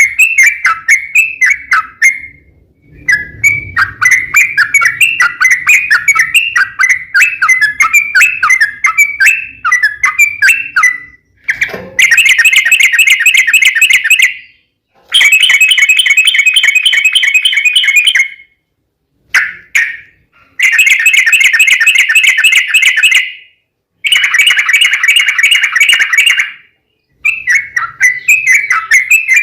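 Yellow-vented bulbul (trucukan) song: quick chattering notes, then several long, fast trilled phrases of two to three seconds each, separated by short silences.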